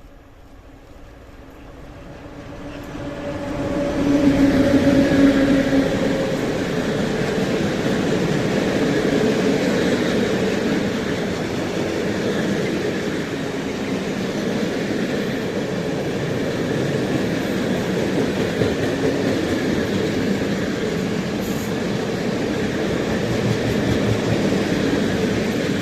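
A train approaching and passing, its rolling wheel-and-rail noise building over the first four seconds and then continuing steadily as the cars go by.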